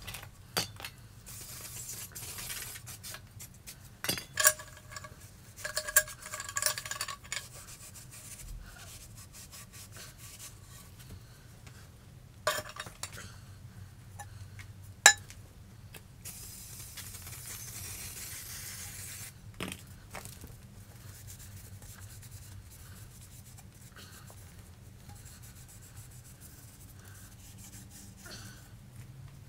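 Metal clinking, knocking and rubbing as tools and motorcycle exhaust parts are handled. There are brief ringing clinks about five to seven seconds in, and a single sharp knock about fifteen seconds in is the loudest sound.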